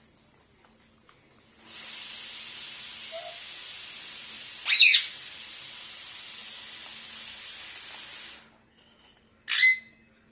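A parakeet gives two short, loud squawks, one about halfway through and one near the end. For about seven seconds, from roughly two seconds in, a steady hiss plays under them and then cuts off abruptly.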